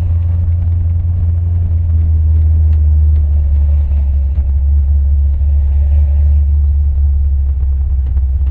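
1964 Chevy pickup's 468 big-block V8 running steadily with a deep, even low rumble as the truck is driven.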